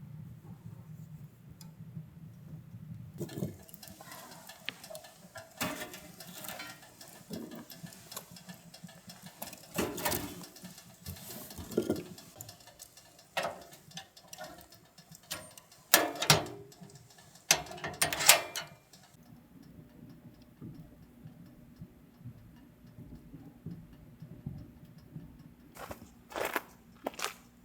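Scattered clicks and knocks of objects being handled, irregular and sharp, the loudest a few seconds past the middle, with a faint low hum in the quieter stretches.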